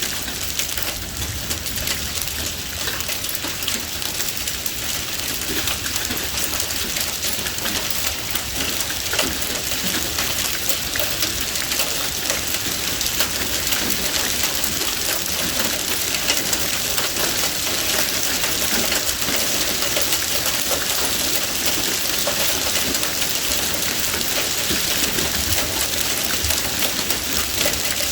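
Heavy thunderstorm rain pouring down and drumming on surfaces, a steady dense hiss that grows slightly louder as it goes.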